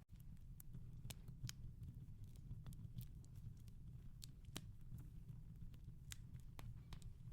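Soft wood fire crackling in a fireplace: irregular, faint pops and snaps over a low, steady rumble.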